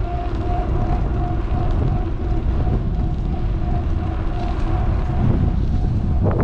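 Wind buffeting a GoPro's microphone on a moving electric bike, a steady low rumble with a faint, even hum running underneath and a brief knock near the end.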